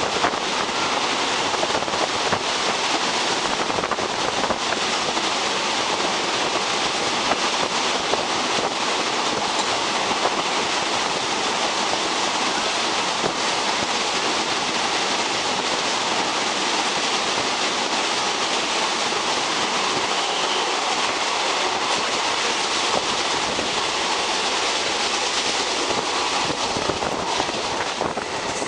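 Passenger train running at speed through a tunnel, heard from the open coach doorway: a steady rush of wheel and wind noise. It eases slightly near the end as the coach comes out into the open.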